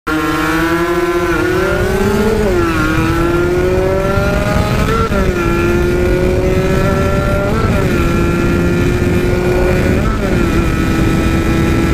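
Kawasaki Ninja RR two-stroke single-cylinder motorcycle engine accelerating hard through the gears. Its pitch climbs in each gear and drops at each upshift, five shifts in all, every two to three seconds.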